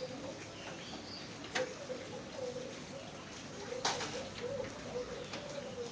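Rain dripping, with a few sharp drops striking loudly, the strongest about a second and a half in and near four seconds in. Under it runs a low, wavering bird call.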